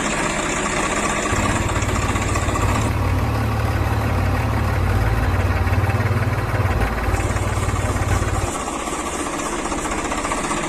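A tractor engine running steadily. Its low-pitched sound grows stronger about a second in and eases off near the end, then everything cuts off abruptly.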